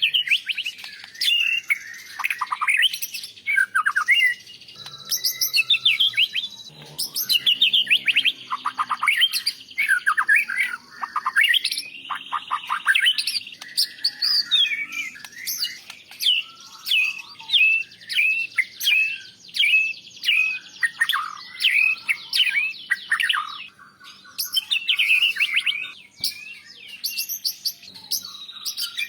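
White-rumped shama (murai batu) singing a long, varied song of rapid repeated notes, sweeping whistles and chattering phrases, broken by short pauses.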